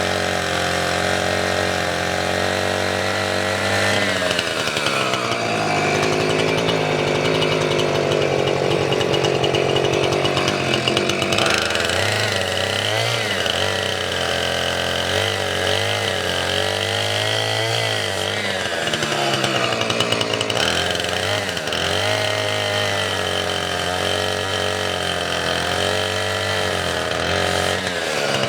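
Chainsaw engine idling, then revved up about four seconds in and run at high speed, its pitch dipping and rising repeatedly as it cuts through firewood, before dropping back to idle near the end.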